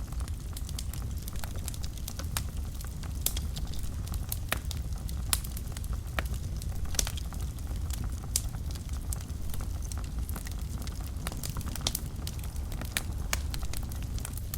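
Wood fire burning in a fireplace: a steady low rumble of the flames with frequent sharp, irregular crackles and pops of the burning logs.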